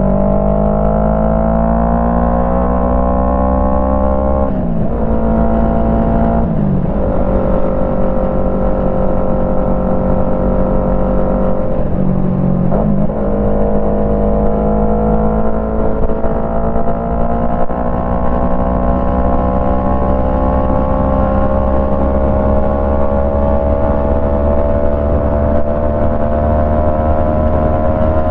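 Yamaha MT-03 with a Jeskap full exhaust system accelerating through the gears: the engine note climbs, drops briefly at gear changes about five, seven and thirteen seconds in, then settles into a steady run with its pitch slowly rising.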